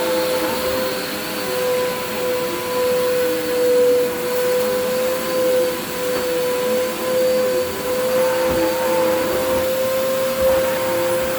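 Vacuum cleaner running steadily, its motor whining at one constant pitch over a rushing noise, with fainter lower tones wavering underneath.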